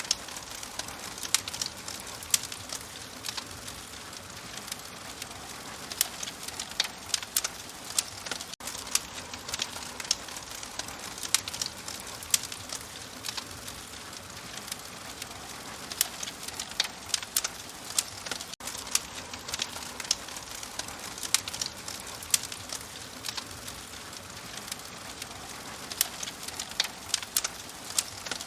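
Wood fire crackling in a fireplace: a steady soft hiss with irregular sharp pops and snaps, several a second.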